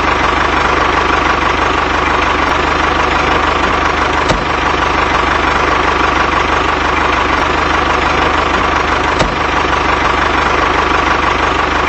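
A motor running steadily with a constant whine, broken by a few faint clicks.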